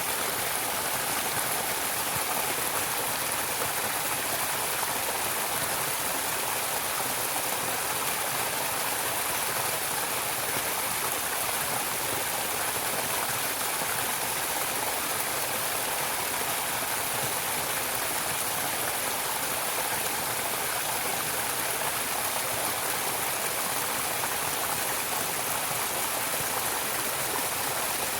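A stream of running water flowing steadily: an even, unbroken rush of water with no changes.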